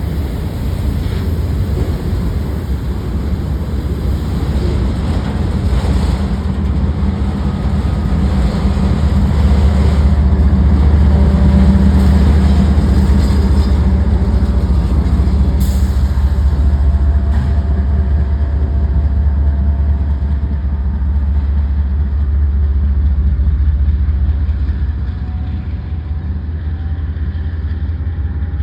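Freight train rolling past, a steady heavy low rumble that swells about a third of the way in and eases off toward the end.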